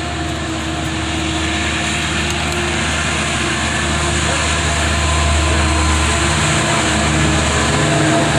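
Amtrak F59PHI diesel locomotive's engine running with a steady low drone, slowly growing louder.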